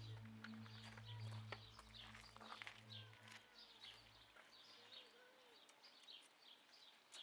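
Faint, frequent high chirping of small birds, with the low notes of background music fading out in the first few seconds.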